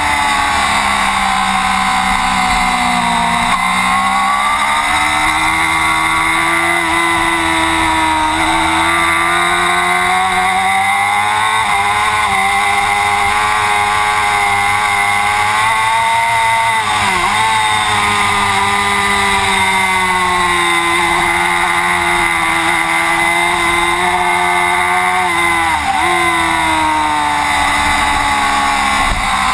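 Racing motorcycle engine heard onboard at speed, its note rising and falling steadily with the revs, with two quick dips in pitch: one a little past the middle and one near the end. A steady rush of wind runs underneath.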